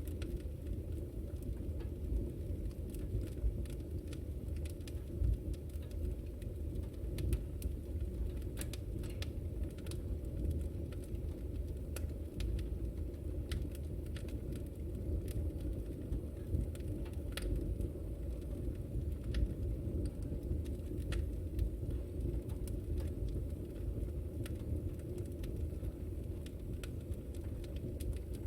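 Wood fire in a fireplace burning steadily: a low rumble of flame with frequent irregular sharp crackles and pops.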